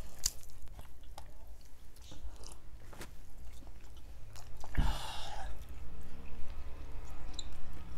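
Close-miked chewing of roast chicken, with small wet clicks and smacks scattered through. There is a brief louder whoosh of noise about five seconds in.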